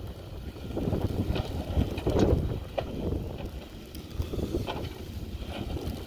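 Gusty wind buffeting the microphone in a snowstorm: a low rumbling wash that swells and eases in gusts every second or two, with a few faint ticks.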